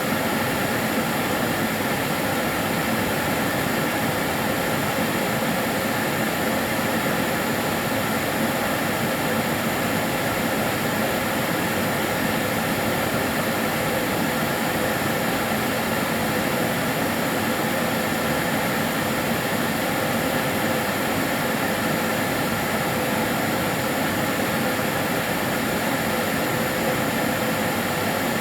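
Karcher DS 6 Premium water-filter vacuum cleaner running steadily: an even rushing hum with a faint whine.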